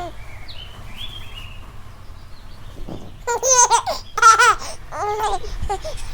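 A baby laughing in several high-pitched bursts, starting about three seconds in. Before that, faint bird chirps sound over a low steady hum.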